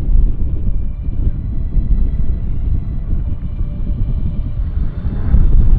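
Low rumble of wind buffeting the microphone on a moving boat, with the boat's motor running underneath; it swells and dips unevenly.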